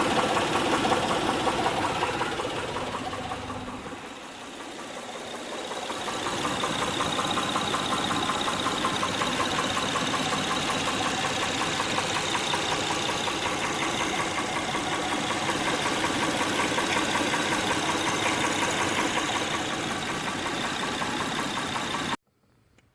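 Honda Pilot's 3.5-litre V6 running with a rapid, steady knocking from the engine, the sign of a defective camshaft lobe. The level dips about four seconds in and the sound cuts off abruptly near the end.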